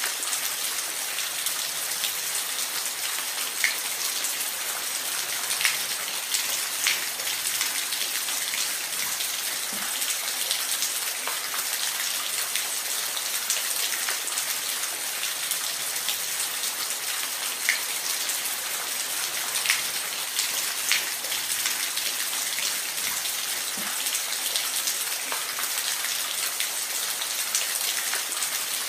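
Steady rain falling, a dense even hiss with scattered louder individual drop ticks.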